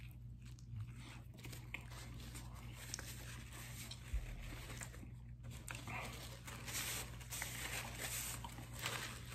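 A man chewing a big mouthful of food, with small wet clicks and mouth noises throughout.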